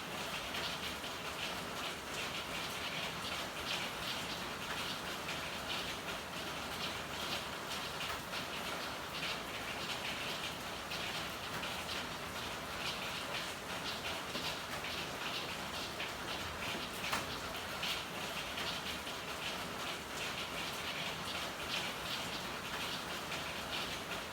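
Steady rain falling, a dense patter of many small drop impacts at an even level, with one sharper drop or tap about seventeen seconds in.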